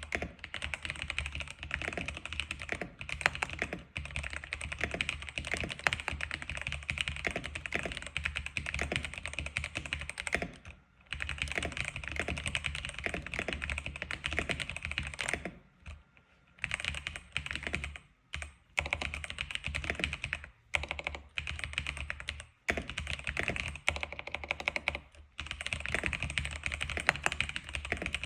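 Fast, continuous typing on an X87 keyboard, a dense run of key clicks broken by a few brief pauses.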